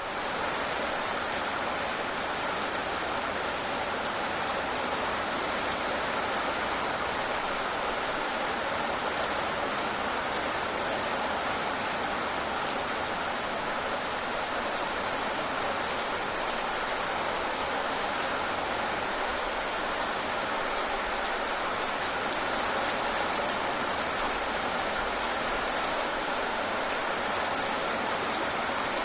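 Steady rain falling: an even hiss flecked with fine drop ticks.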